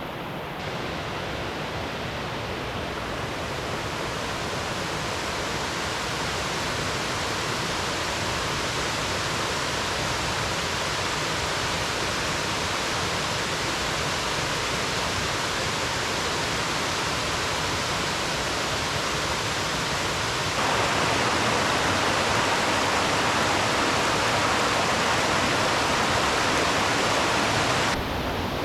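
Fast-flowing river water rushing steadily, stepping abruptly louder about two-thirds of the way through.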